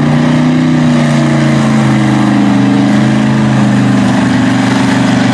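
Mud truck engine running loudly at a fairly steady pitch, with slight rises and falls in engine speed.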